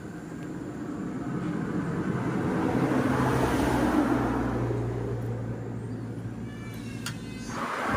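A motor vehicle's engine passing, its sound swelling to a peak about four seconds in and fading again, with a low steady hum under it; a few light clicks come near the end before the sound cuts off abruptly.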